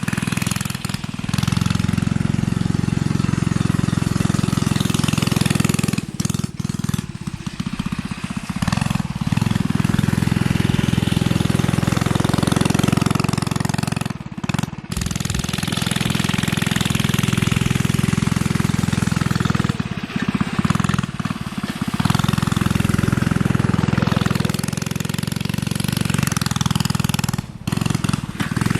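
Coleman CT100U minibike's small single-cylinder engine, running with its governor bypassed and an aftermarket exhaust with a mini muffler, held at high throttle with a rattly note. The throttle is eased off briefly several times.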